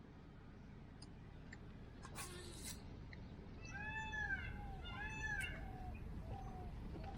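A cat meowing: two clear meows about four and five seconds in, then two shorter, fainter ones.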